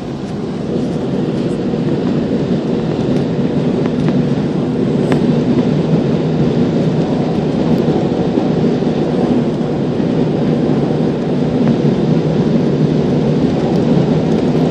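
Jet airliner heard from inside the cabin during takeoff: a loud, steady rumble of engines and rushing air that swells about a second in.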